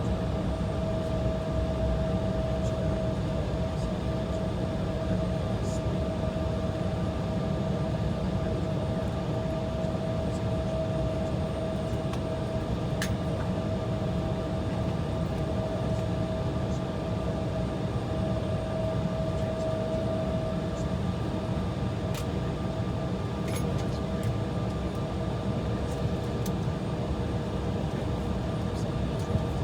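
Steady cabin noise inside an Embraer E175 waiting on the taxiway at idle: a low rumble with a steady whine over it, and a few faint clicks.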